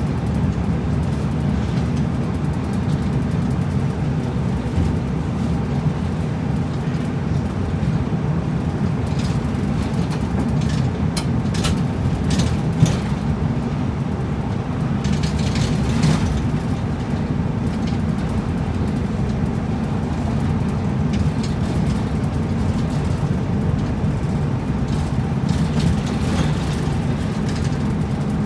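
A route bus under way, heard from inside: a steady low rumble of engine and road noise, with a few short rattles and knocks about ten to sixteen seconds in.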